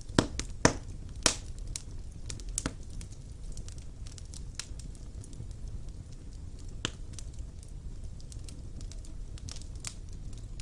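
Wood fire burning in a stone fireplace: a low steady rumble under irregular crackles and pops, with a quick cluster of loud pops in the first second and another sharp pop about seven seconds in.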